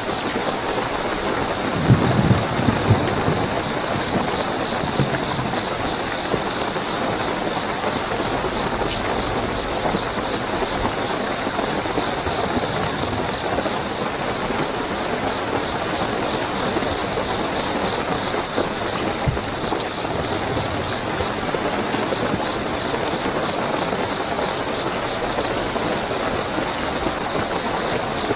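Steady heavy rainfall with crickets trilling as a continuous high-pitched tone over it. A few low thuds come about two seconds in and again near the middle.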